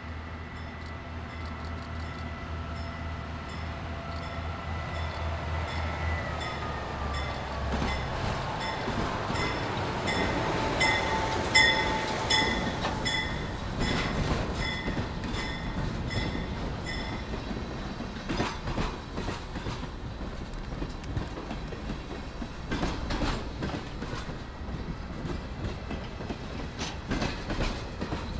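A diesel-hauled freight train passes close by: the locomotive engine runs with a low hum, its tone dropping in pitch as it goes past. Freight cars then roll by with a steady rumble, and the wheels click over rail joints and squeal now and then.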